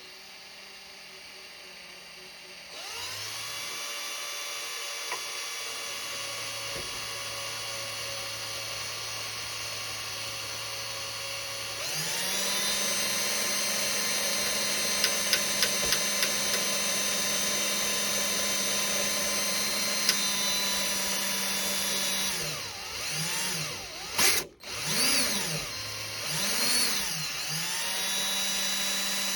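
Electric drill boring out a prop-shaft hole in a plastic model ship hull, its motor whining steadily. The whine steps up in speed about 3 seconds in and again about 12 seconds in. Near the end the speed dips and rises several times, with a brief stop in between.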